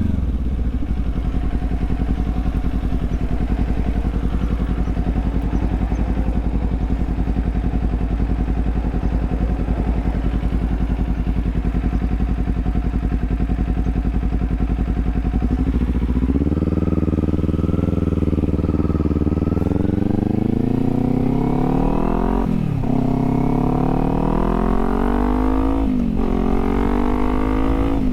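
Kawasaki Z400's parallel-twin engine running at a steady speed for a good while, then accelerating. Its pitch rises, drops sharply twice as the bike shifts up through the gears, and climbs again.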